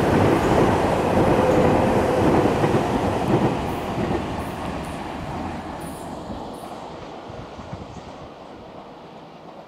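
Nankai electric train, a 10000 series Southern set, running past on the far track: wheels rumbling on the rails, loud at first, then fading steadily from about three seconds in as it draws away. A few faint squeaks come in the middle.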